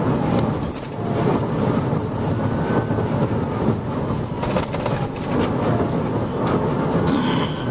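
Patrol car's road and wind noise at high speed, a steady loud rumble heard from inside the cruiser during a pursuit at around 95 mph.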